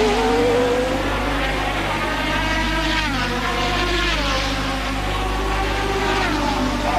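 Formula One race car engines running at high revs, several engine notes layered. The pitch climbs, drops sharply about three seconds in and again a second later as the cars slow, then runs on.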